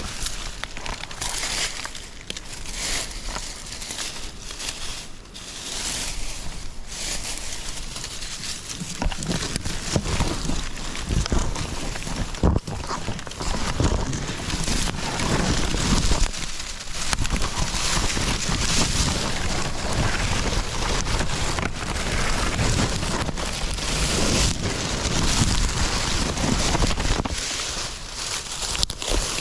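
Branches, bamboo and dry leaves rustling and scraping, with crunching footsteps in leaf litter, as a hiker pushes through dense undergrowth; the rustling grows busier and louder about a third of the way in.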